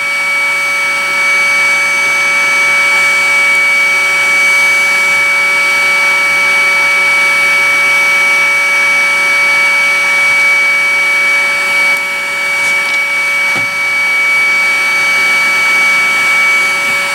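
Hot-air blower running steadily: a constant fan whir with a steady high whine, heating a BGA socket for desoldering.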